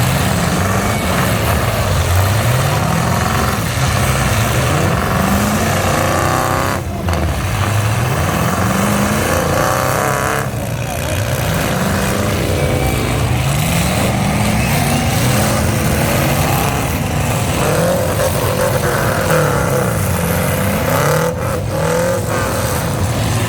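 Several demolition-derby trucks' engines revving hard over and over, each rev climbing in pitch and dropping back as the trucks accelerate toward one another, over a constant loud engine roar.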